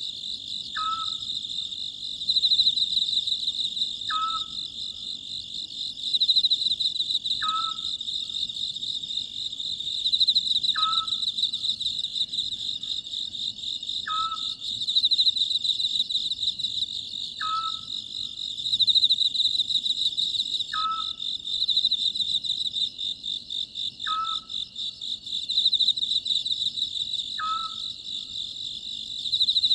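Oriental scops owl giving its short call about every three and a half seconds, nine times in all, over a steady, pulsing chorus of insects that is the loudest part of the sound.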